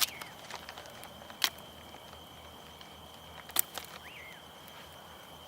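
Campfire crackling: a few sharp pops, about two seconds apart, and some fainter ticks, over a faint steady high tone.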